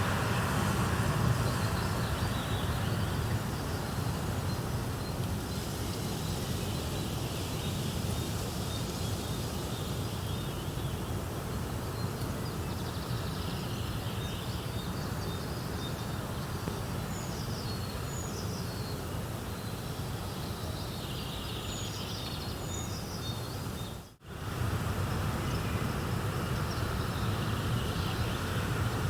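Steady crackling and hissing of a fireplace, with birds chirping faintly now and then. The sound cuts out for a moment about 24 seconds in, then resumes.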